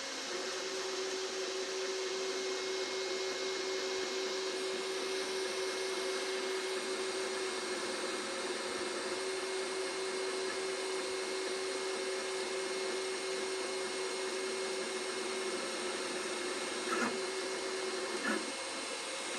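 Two Trees Sapphire Plus CoreXY 3D printer printing, its cooling fans hissing steadily under a steady motor hum that holds for most of the time and stops near the end, around two short knocks.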